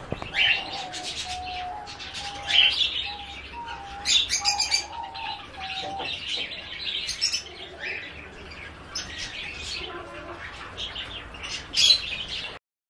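Several pet birds chirping and twittering, with a run of short whistled notes in the first half and a few brief louder rattling bursts about four seconds in and near the end. The sound stops abruptly just before the end.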